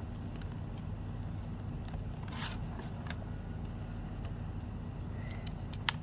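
White gym chalk being crushed: scattered small crunching crackles, a brief scrape about two and a half seconds in and a sharp snap near the end, over a steady low hum.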